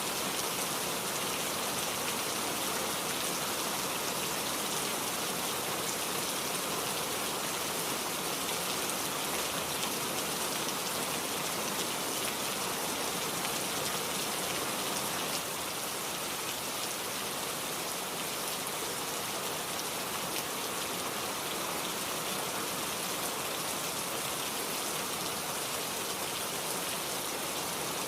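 Heavy rain falling steadily, a dense even hiss of many drops, a little softer from about halfway on.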